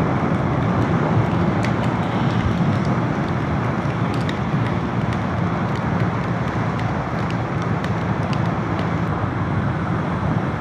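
Motorcycle engine running steadily at cruising speed, around 70 km/h, with wind rushing past the microphone.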